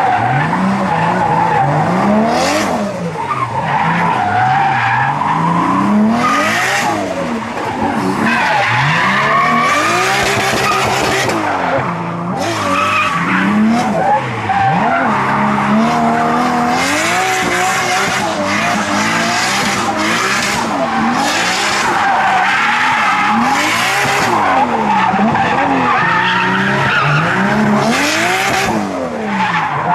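Turbocharged car engine revving up and down over and over, its pitch climbing and dropping every second or two, with repeated bursts of hiss.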